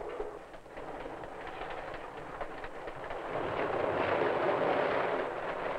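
Passenger train cars running past close by, a steady rushing noise that grows louder about three and a half seconds in.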